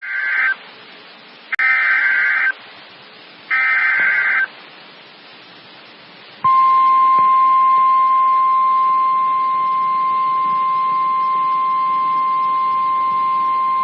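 NOAA Weather Radio emergency alert: three short bursts of SAME digital header data, then about six and a half seconds in the long steady warning alarm tone. It signals that a warning, here a tornado warning, is about to be broadcast.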